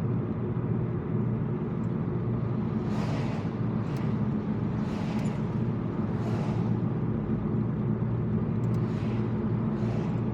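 Car engine and road noise droning steadily inside the cabin while driving, with about five brief rushing whooshes spread through it.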